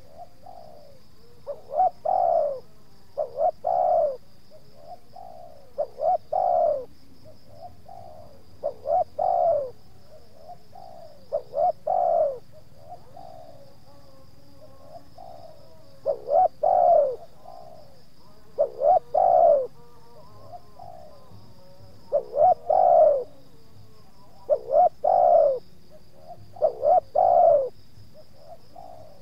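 Spotted dove cooing: phrases of two or three quick notes ending in a longer falling coo, repeated about every two to three seconds, with one longer pause about halfway through.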